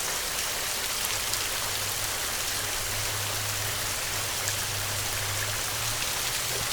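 Heavy rain falling steadily, a dense hiss of many drops. A low steady hum sits underneath through the middle.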